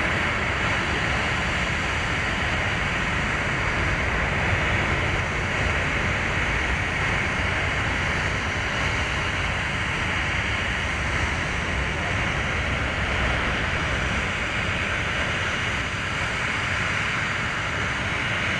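Steady rushing noise of jet aircraft engines running at the airport, even and unbroken with no distinct whine or pitch change.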